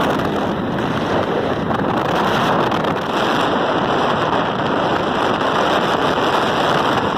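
Benelli 302R's 300 cc parallel-twin engine running at speed, largely buried under a steady rush of wind on the microphone.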